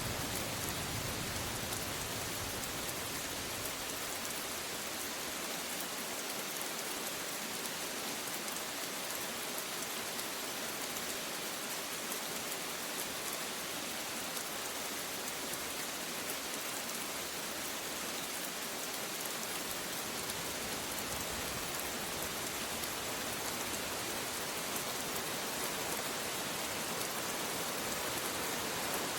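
Rain falling steadily, an even hiss of many drops with no thunder.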